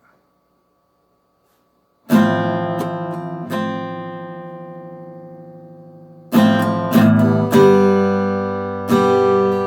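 Acoustic guitar: quiet for about two seconds, then a few chords strummed and left to ring out, fading slowly, and a second run of strums from about six seconds in.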